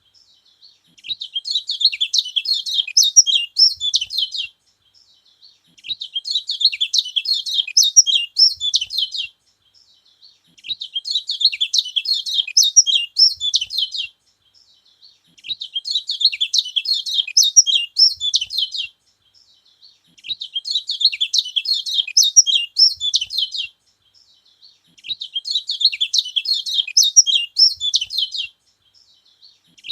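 Kecial kuning songbird singing: bouts of rapid, high chirping about three and a half seconds long, each followed by a pause of about a second, repeating at an even pace.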